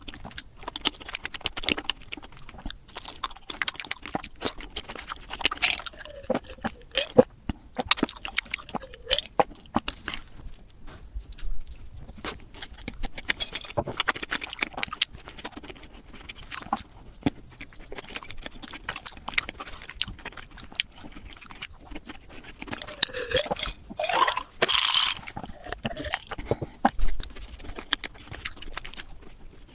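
Close-miked eating sounds of chocolate desserts, played back sped up: rapid crunching, chewing and mouth clicks, with a few short squeaky glides.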